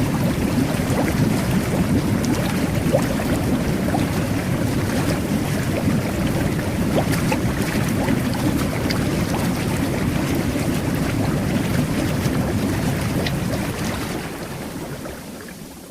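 Jet bath (whirlpool bubble bath) churning the water: a steady rushing, bubbling noise with scattered small pops. It fades out near the end.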